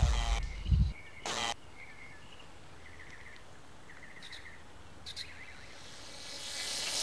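Small birds chirping in short trills over a quiet outdoor background, with a few sharper calls. A loud low rumble fills the first second and cuts off suddenly, and a hiss swells near the end.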